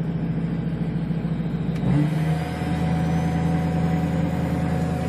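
Ford 6.0 L Powerstroke V8 turbo-diesel idling steadily on a cold engine, shortly after a cold start. About two seconds in there is a click, and the engine note shifts and grows slightly louder.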